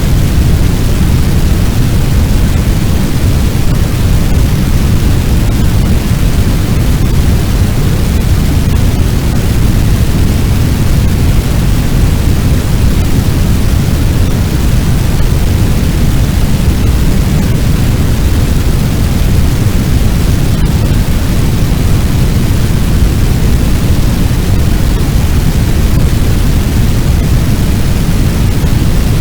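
Sound effect of a large fire: a loud, steady low rumble that stays even throughout, with no distinct crackles or pops.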